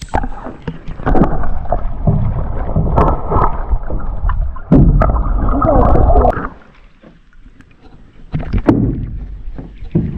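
Water and hull noise from a paddled aluminium jon boat turning in circles: a loud rough rush for about six seconds, a short lull, then more near the end.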